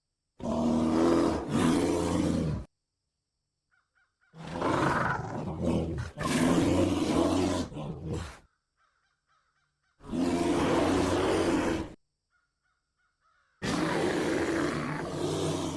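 A polar bear roaring and growling: four rough, deep roars, each two to four seconds long, with silent gaps between them.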